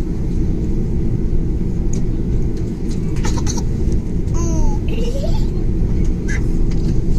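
Airliner cabin noise just after landing: a loud, steady low rumble. A few short clicks come about three seconds in, and a baby makes brief gliding vocal sounds around the middle.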